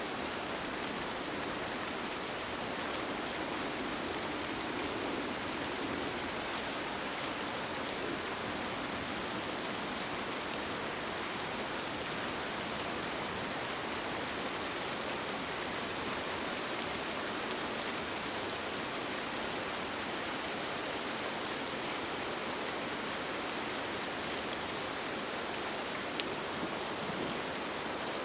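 Steady rain falling on a tent, an even hiss with the odd louder drop ticking out of it.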